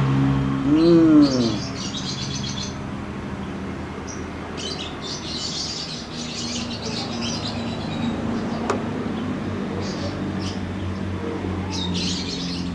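Small birds chirping and twittering in short scattered bursts, over a low steady hum.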